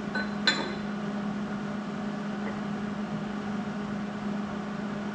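MIG welder running a bead on a steel bracket: a steady arc hiss over a constant low hum, with one short click about half a second in.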